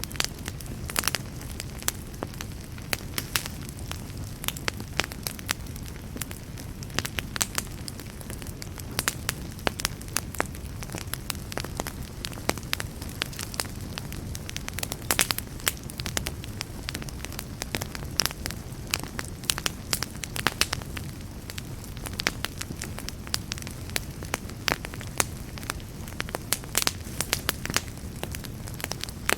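Wood campfire burning steadily, with many sharp, irregular crackles and pops over a low steady rumble of the flames.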